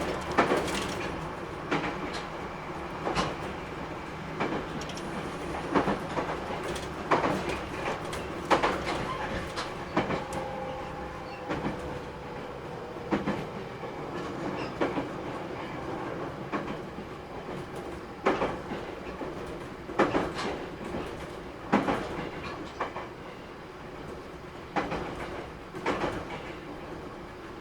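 JR Kyushu 811 series electric train running, its wheels clicking over rail joints every second or two under a steady rumble. A faint falling whine comes in about ten seconds in.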